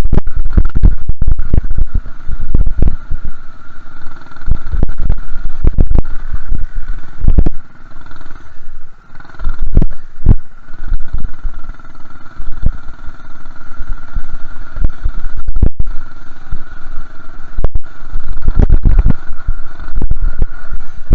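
Small minibike engine running under throttle as the bike is ridden, with heavy low thumping and buffeting over it. The engine eases off briefly about eight or nine seconds in, then picks up again.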